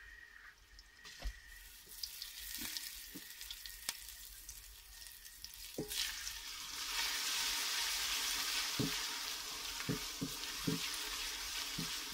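Ginger-garlic paste and browned onions sizzling in hot ghee in an aluminium pot, stirred with a wooden spoon that knocks against the pot's side now and then. The sizzle starts about two seconds in and grows louder from about six seconds as the stirring turns the mixture over.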